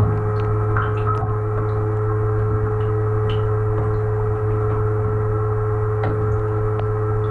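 GE GDT655SSJ0SS dishwasher's wash pump motor running steadily: a low hum with a steady whine above it and a few faint ticks.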